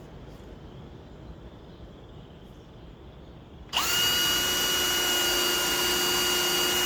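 Electric drill starting about halfway through and running at a steady high speed, a loud even whine that climbs quickly to pitch as it spins up.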